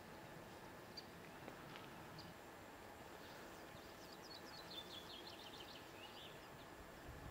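Quiet outdoor ambience with a faint small bird: a few single high chirps, then a quick run of about a dozen high notes about four seconds in.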